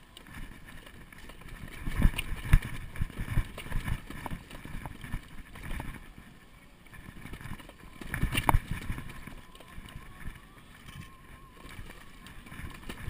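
Wind buffeting a chest-mounted action camera's microphone while riding an electric bicycle, with strong gusts about two seconds in and again around eight seconds.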